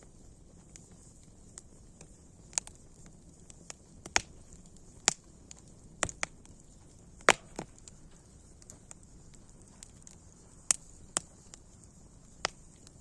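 Wood fire crackling: sharp, irregular pops, about ten of them and a few much louder than the rest, over a faint steady hiss.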